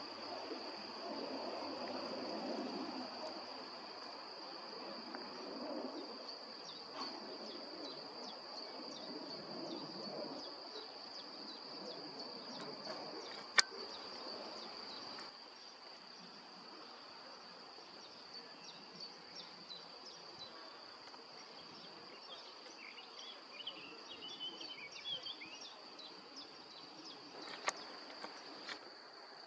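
Crickets trilling steadily in one high, unbroken tone, with a distant jet airliner's rumble fading away over the first ten seconds or so. A sharp click about halfway through and another near the end, and a few brief bird chirps shortly before the end.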